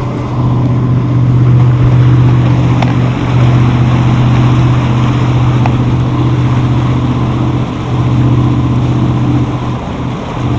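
A boat's single Chevy-powered inboard engine running steadily at cruise, with a deep, even hum, over wind and water rushing past the hull. It is the only engine running; the other has been shut down for overheating, suspected from a failed water pump.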